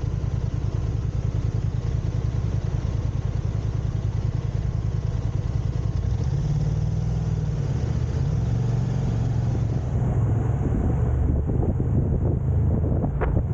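Steady low rumble of a car's engine and tyres on the road, heard from inside the moving car through a dashcam, with a single sharp click near the end.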